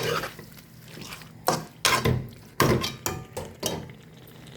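A spoon knocking against a cooking pan, about six sharp knocks with a little scraping between them, as spices are added to the dish.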